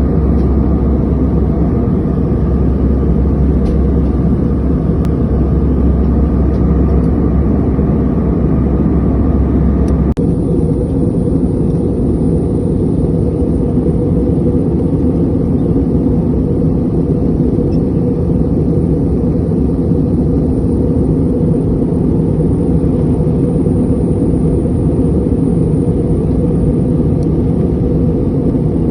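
Airliner cabin noise: a steady rumble of engines and airflow, with a sudden change in tone about ten seconds in.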